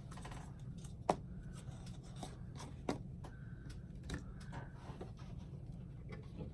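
Light handling noises on a work table: a few sharp clicks and taps with soft rubbing and scraping, over a steady low hum.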